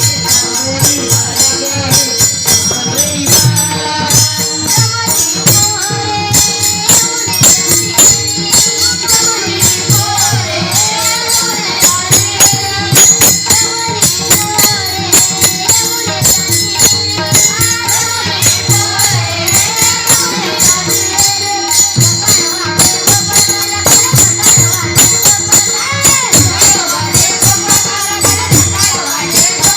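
Marathi gaulan devotional song performed by a bhajan group: a sung melody over a steady, fast beat of jingling percussion and a low drum.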